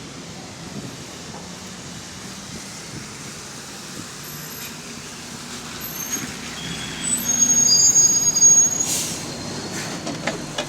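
Bus engine running with an exhaust leak. About six seconds in, the brakes squeal in several high steady tones as the bus slows, and a short burst of air hiss from the air brakes follows near nine seconds.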